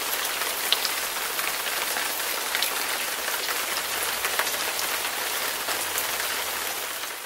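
Steady rain: an even hiss of falling water with scattered sharp drop taps, fading out at the end.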